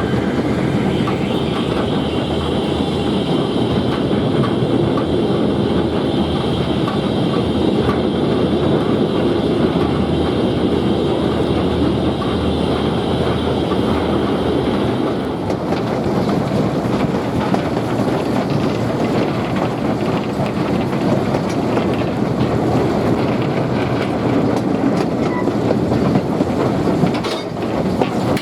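Train running along the track: a steady, loud rumble of wheels on rail with clickety-clack over the joints, and a high note that fades out about halfway through.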